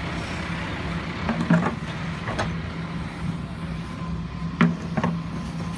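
Kobelco SK140-8 excavator's diesel engine running steadily while it pushes over a tree, with several sharp cracks and knocks scattered through.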